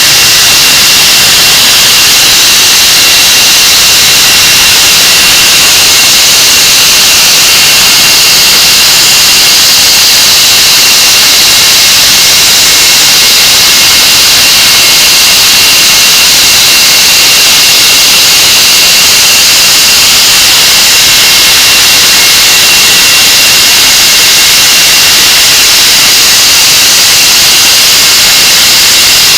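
English Electric Lightning's Rolls-Royce Avon turbojets on a ground run, very loud and steady: a dense rush of jet noise with a thin, constant high whine through it.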